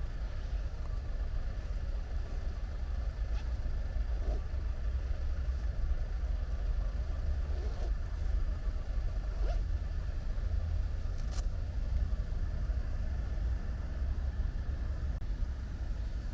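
Light rain falling, with a steady low rumble underneath and a few scattered faint ticks.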